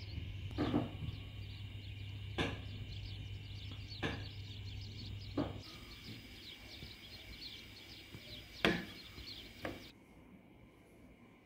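Small birds chirping busily and continuously, with a handful of louder sharp clicks or knocks every second or two; the chirping stops near the end.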